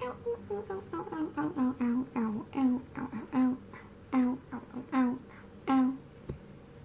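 A woman humming a tune in short repeated notes, the melody stepping down in pitch, with a single sharp click near the end.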